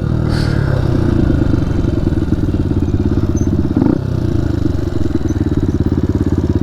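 Dirt bike engine running steadily under way, heard from the rider's seat, with a fast, even pulsing that holds nearly the same pitch.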